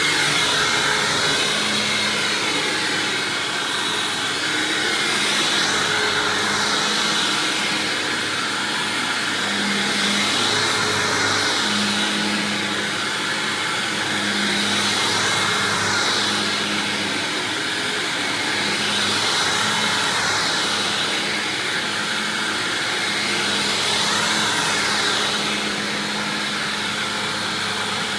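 Hoover Windtunnel self-propelled upright vacuum running on its swapped-in Maytag-era motor, with the self-propel drive engaged. It is a steady motor whine that swells and eases every four seconds or so.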